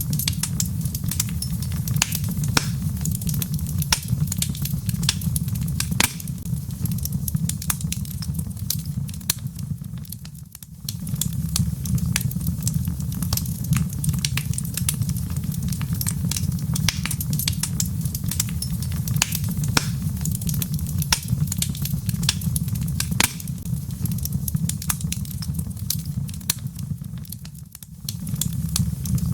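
Wood fire in a fireplace crackling: frequent irregular sharp pops and snaps over a steady low rumble. The sound briefly drops away twice, about ten seconds in and shortly before the end.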